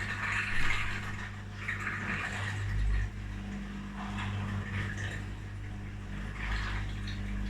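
Washing machine drain pumps humming steadily while the water gushes and gurgles out in uneven surges: the machines are pumping out their wash water.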